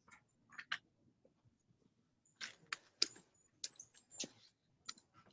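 Footsteps on a rough sand-and-rock jungle trail: a string of short, irregular scuffs and crunches, some coming in quick pairs.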